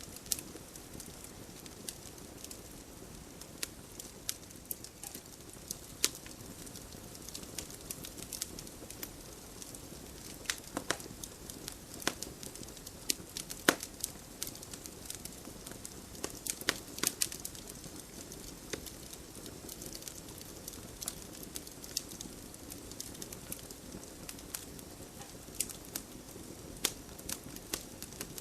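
Wood fire crackling in a fireplace: irregular sharp pops and snaps over a steady low hiss of burning. The loudest pop comes about halfway through.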